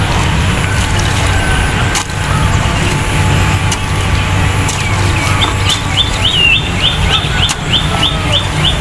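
Steady low rumble with a few faint knocks, and from about halfway in a bird chirping a fast series of short high notes, about four a second.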